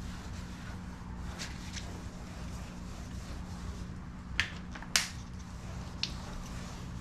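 A few short, sharp clicks or taps, the loudest two about four and five seconds in, over a steady low hum.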